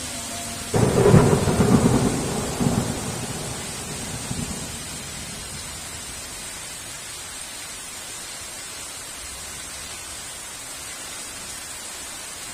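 A thunderclap: it breaks in sharply under a second in, rumbles with a second surge, and dies away over about four seconds, over steady heavy rain.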